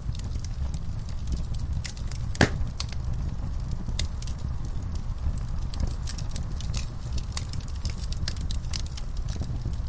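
Fire in an outdoor firepit crackling, with irregular pops and one louder snap about two and a half seconds in, over a steady low rumble.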